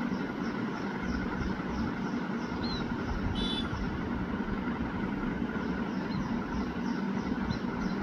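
A steady low background rumble, with small birds chirping briefly: a short rising chirp, then a brief call about three and a half seconds in. A faint high note repeats about three times a second.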